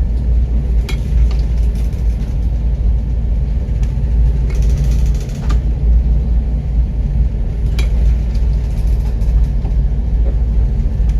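Loud, steady low rumble with a few faint knocks.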